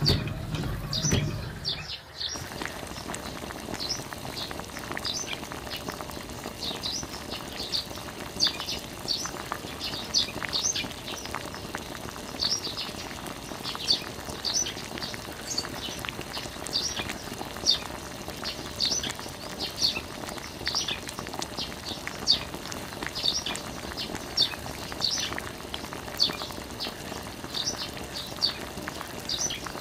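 Small birds chirping, short high chirps repeating about once or twice a second over a faint steady hiss. A low hum cuts off about two seconds in.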